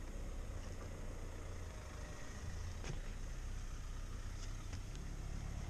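Car engine idling: a steady low hum with a few faint clicks.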